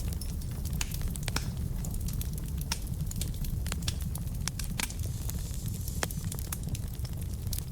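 Wood fire burning in a fireplace: frequent sharp, irregular crackles and pops from the burning logs over a steady low rumble.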